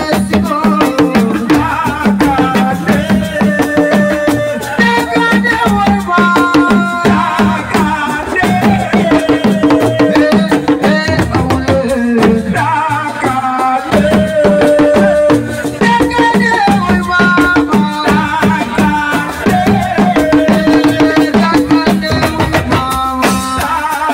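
Live Senegalese assiko band music: dense, fast hand-drum and rattle percussion with a melody carried over it.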